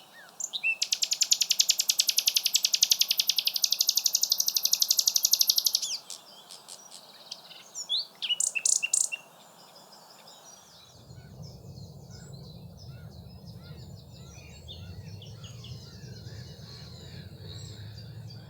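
Common nightingale singing: a loud, very rapid repeated trill lasting about five seconds, then shorter separate phrases. After about eleven seconds, fainter scattered birdsong over a low steady rumble.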